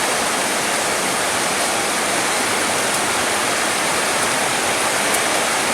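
Steady, dense rain hiss, an even continuous shower with no distinct drops or pauses.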